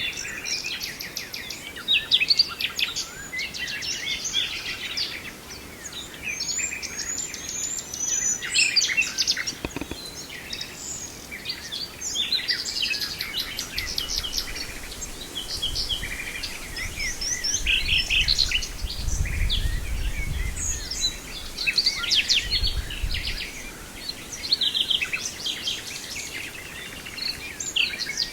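Common nightingale singing phrase after phrase of rapid, varied notes and trills, with short pauses between phrases. A low rumble comes and goes through the middle.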